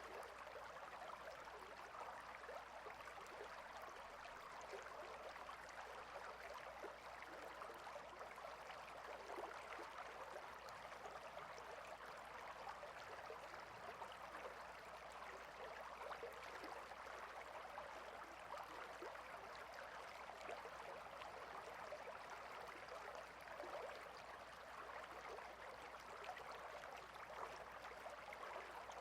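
A water stream flowing steadily, a continuous faint wash of running water with no change throughout.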